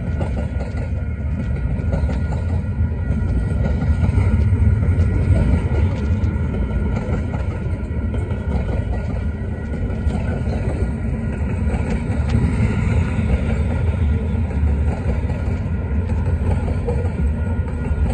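Freight train of tank cars and covered hoppers rolling past close by, with a steady, loud rumble of steel wheels on the rails.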